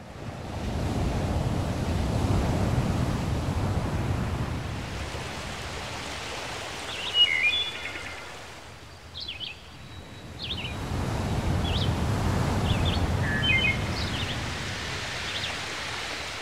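Nature ambience of waves surging in twice as long swells, with small birds chirping in short bursts between and over the second swell.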